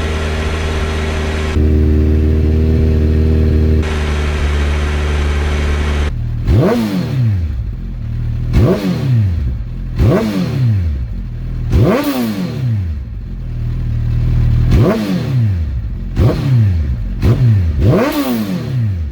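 2008 Suzuki Hayabusa's inline-four engine through a full Akrapovic 4-into-1 exhaust, running steadily, then blipped about seven times from about six seconds in, each rev rising sharply and dropping straight back.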